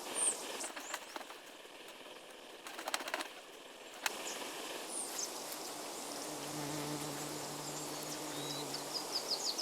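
Hummingbird wings humming as the bird hovers, a steady buzzing hum starting about six seconds in, with a few short high chirps.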